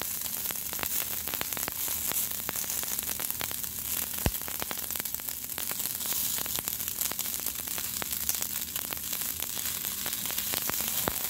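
Leftover rice, beans and tortilla sizzling in a very hot skillet: a steady hiss scattered with many small pops and crackles as the rice pops, with one sharper click about four seconds in.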